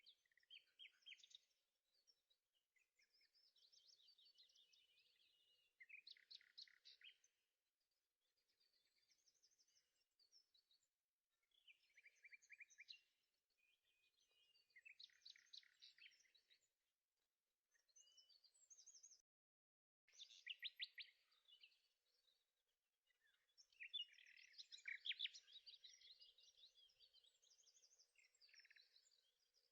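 Faint birdsong: chirps and quick trills in short phrases, every couple of seconds, with brief pauses between them and a denser stretch near the end.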